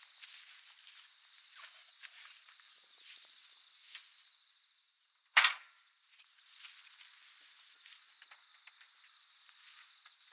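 Wood campfire crackling with small scattered snaps, and one loud sharp pop about halfway through. Insects chirp throughout in a steady high pulsing trill.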